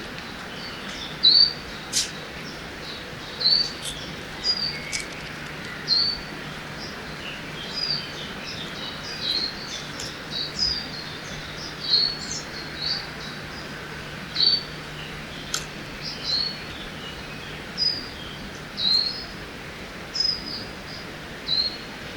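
Forest ambience by a river: small birds chirping, short calls repeating about once a second, over a steady wash of background hiss.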